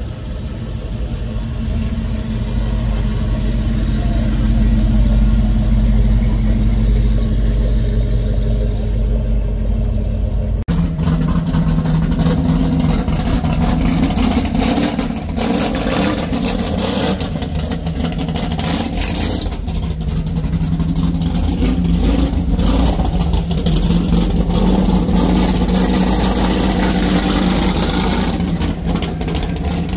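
A classic muscle car's engine running as the car rolls slowly past, swelling louder a few seconds in. About a third of the way through it gives way to a louder, deeper-toned engine of a 1955 Chevrolet gasser hot rod, idling with a choppy, uneven beat and some revving.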